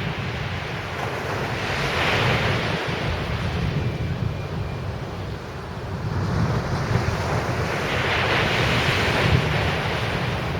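Sea waves breaking and washing up the beach, their hiss swelling about two seconds in and again around eight seconds, over a steady low rumble of wind on the microphone.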